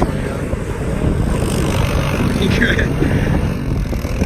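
Dirt bike engine running, a steady low rumble.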